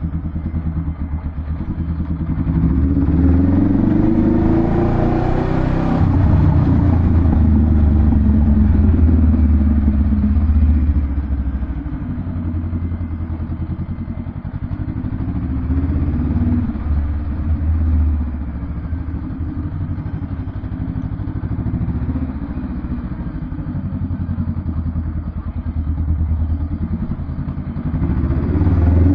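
Honda Rebel 500's parallel-twin engine through a Vance & Hines aftermarket exhaust, running with a deep rumble. It rises in pitch and loudness a couple of seconds in and holds high for several seconds. It then drops back to a lower, steady beat and picks up again near the end.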